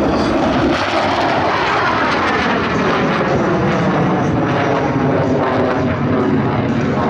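Blue Angels F/A-18 Hornet jets flying past, a loud steady jet noise whose tone sweeps and shifts as they go by.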